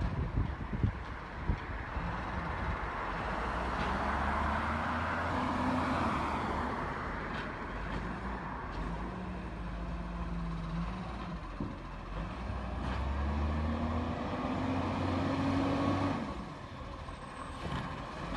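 Garbage truck's engine revving up and dropping back twice, with a rushing hiss about four seconds in and a few knocks at the start.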